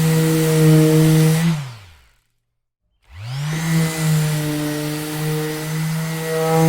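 Orbital sander motor running steadily, then switched off about one and a half seconds in: it winds down with falling pitch to silence. About a second later it is switched back on and spins up with a rising whine to full speed.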